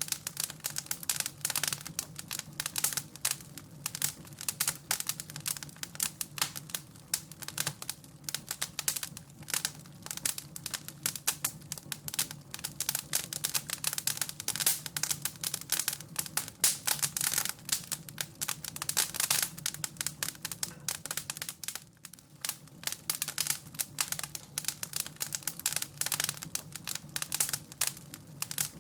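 Wood fire crackling in a fireplace: dense, irregular crackles and pops with a brief lull about three-quarters of the way through.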